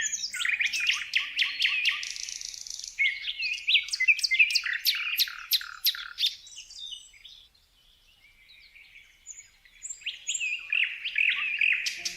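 Songbirds singing: quick chirps and trills from several birds, dense for the first half, thinning out around the middle, then building again near the end.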